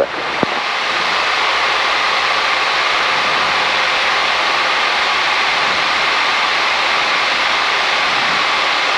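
Cessna 172's engine and propeller noise inside the cabin, rising over about the first second as the throttle is opened for the takeoff run, then holding steady at full power.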